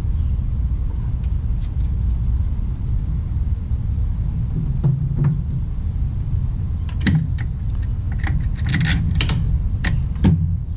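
Metal tools and bolts clinking and rattling in a cluster of sharp clicks about seven to ten seconds in, over a steady low rumble.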